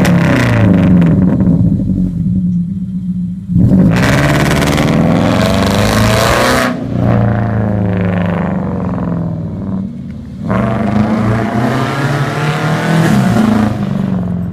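2010 Subaru Impreza 2.5i's 2.5-litre flat-four engine with an aftermarket exhaust, revved several times. Its pitch rises and falls between revs without returning to a quiet idle.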